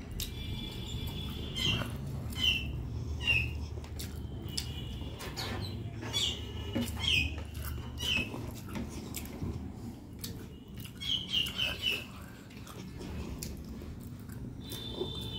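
Close-up wet chewing and lip smacking as rice and curry are eaten by hand, with short squeaky mouth chirps about once a second and a quick run of four near the end.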